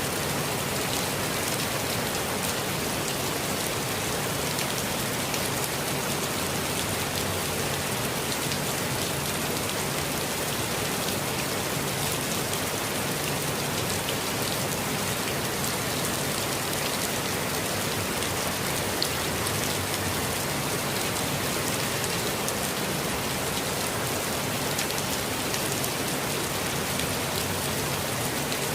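Steady rainfall, with many small drops pattering on surfaces. The hiss and patter hold even and unbroken, without thunder.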